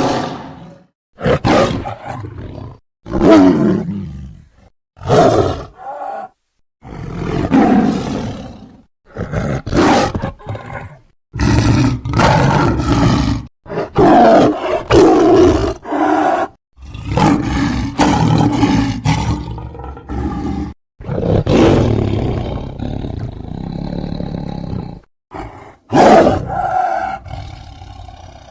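Big-cat roars and growls presented as the call of a sabre-toothed cat: about a dozen separate roars, each one to three seconds long, with short silences between them.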